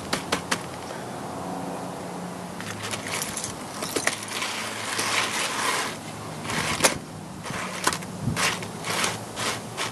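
A rusty metal chain being scrubbed and handled: a quick run of metallic clicks at the start, then rough scraping and rattling in irregular bursts.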